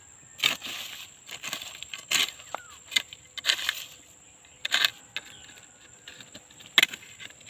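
A hand tool jabbing and scraping into soil while sweet potatoes are dug up, making about seven irregular crunching, rustling strokes spaced unevenly.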